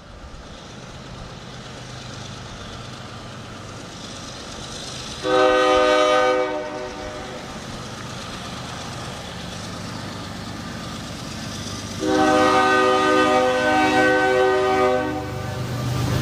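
Norfolk Southern diesel locomotive approaching with a steady engine rumble that grows louder, sounding its air horn twice: a short blast about five seconds in, then a longer one of about three seconds about twelve seconds in.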